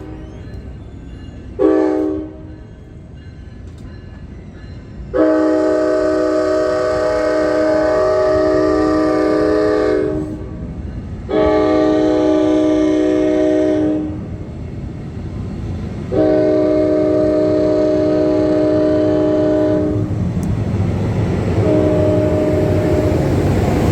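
Locomotive air horn sounding a multi-note chord in a series of blasts: one short blast, then three long blasts of several seconds each, and another near the end. A train's rumble grows underneath from about 20 s in.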